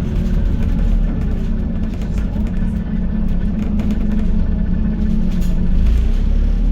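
Scania N280UD double-decker bus's five-cylinder diesel engine running with the bus under way, heard from inside the bus: a steady heavy low rumble with a faint drivetrain whine that slides in pitch.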